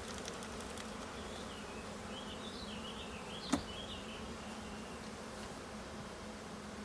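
Honeybees buzzing steadily in a mass around an open hive, with one sharp click about halfway through.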